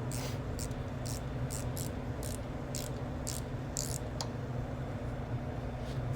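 Ratchet wrench clicking in short bursts, about two a second, as 5/8-inch bolts with lock washers are run down tight, over a steady low hum.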